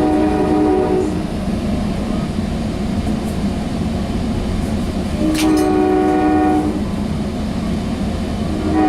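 Sounder commuter train running, heard from aboard, with a steady low rumble as its locomotive sounds its multi-tone horn in separate blasts: one ends about a second in, a longer one sounds in the middle, and another begins just at the end.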